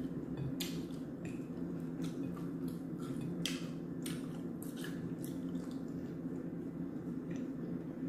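Close-miked chewing of fried chicken: irregular, wet, crackly mouth sounds at uneven intervals, over a steady low hum.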